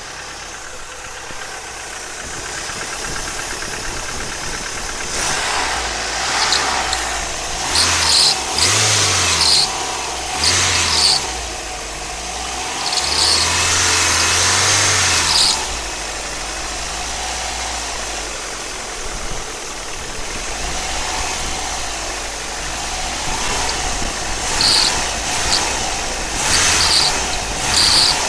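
Car engine running and revved in several bursts, with a high-pitched whistle that comes in during the revs.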